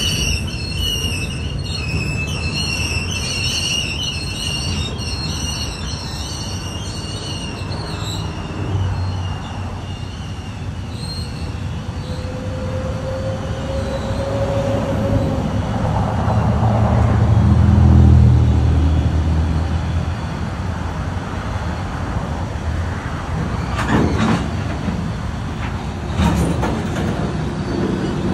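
Diesel locomotive moving with its rail cars. A high wavering squeal lasts about the first eight seconds and stops suddenly. The engine's low rumble then swells to a peak about two-thirds of the way through and eases off, with a few sharp knocks near the end.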